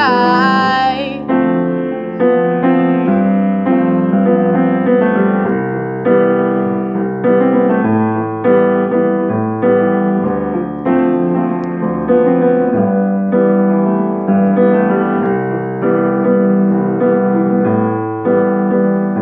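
Piano playing a steady run of chords as an instrumental interlude. The last sung note of the verse trails off about a second in.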